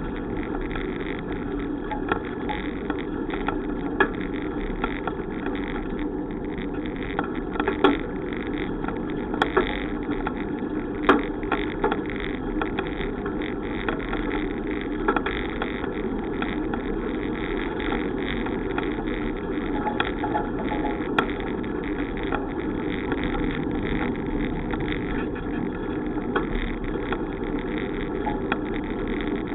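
Steady road and wind noise of a bicycle being ridden, with a few sharp clicks and knocks now and then.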